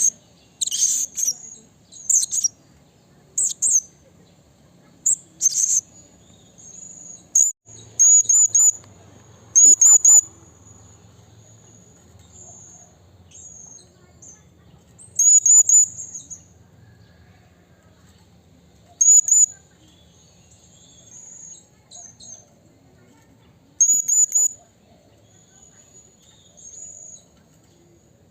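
Blue-crowned hanging parrot (serindit) calling: short, high, shrill calls, single or in quick runs of two or three, coming every one to several seconds, with fainter calls between them.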